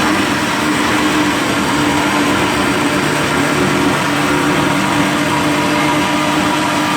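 Chainsaw engine running steadily at high speed while cutting through a piece of wood; its pitch drops slightly about four seconds in, then holds.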